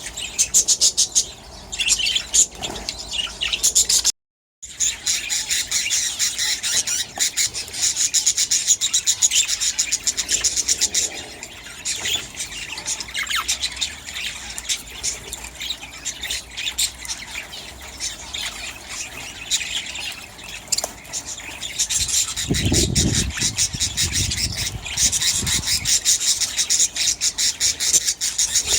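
A flock of budgerigars chattering and squawking continuously in an aviary. The sound cuts out briefly about four seconds in, and a low rumble comes in about two-thirds of the way through.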